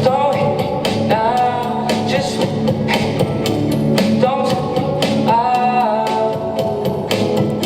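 Live alt-pop band performance: a voice singing a melody over guitar, with steady drum and cymbal hits.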